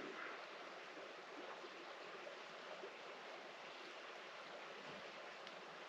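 Faint, steady outdoor hiss with a couple of very faint ticks.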